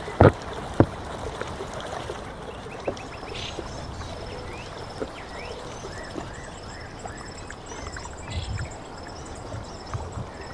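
Outdoor ambience: a steady rushing like running water, with small birds chirping and trilling from about three seconds in. Two sharp knocks sound in the first second.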